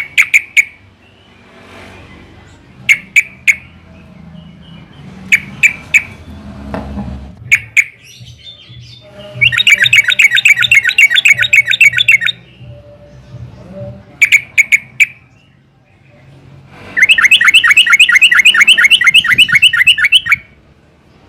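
Yellow-vented bulbul (trucukan) calling and singing: short clusters of two or three sharp chirps every few seconds, and twice a long, fast bubbling chatter lasting about three seconds.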